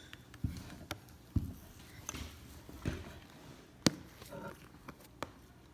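Sticky, fluffy slime being squished and pressed by hand, giving irregular soft squelches and small sharp pops.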